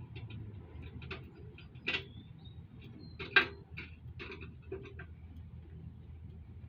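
Irregular light metallic clicks and taps from a socket wrench and bolts as the rack is fastened on, with two louder sharp clanks about two and three and a half seconds in.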